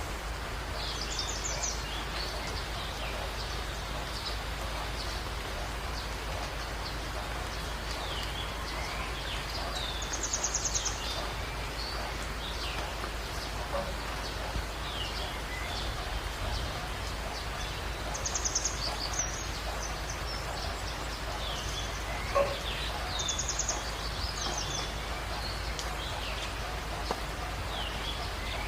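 Birds chirping outdoors over a steady rushing noise like rain, water or wind. A short high trill stands out about four times, with smaller chirps scattered between.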